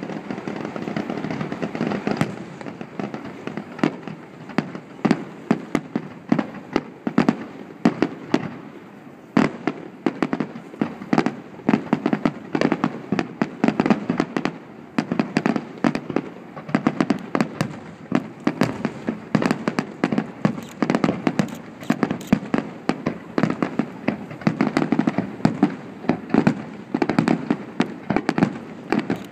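Fireworks display: a dense, continuous run of sharp bangs and crackling bursts, several a second, with no pause.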